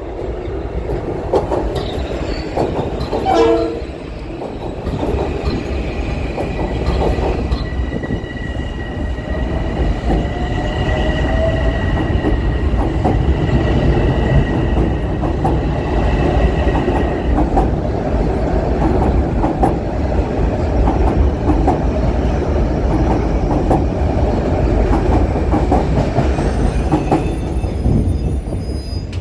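Metro-North commuter train running through on the rails, a continuous loud low rumble of wheels and cars. A steady high-pitched whine runs from about five seconds in to about seventeen seconds.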